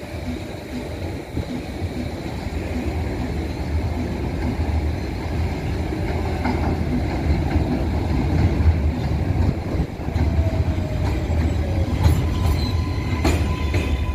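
R188 subway train coming into the station, its rumble on the rails growing louder. A falling whine comes in about ten seconds in, and several sharp clacks follow near the end.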